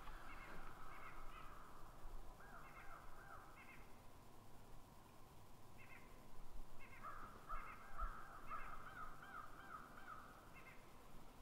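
Faint bird calls in woodland: short calls repeated in small groups, with a longer wavering run of calls about seven seconds in.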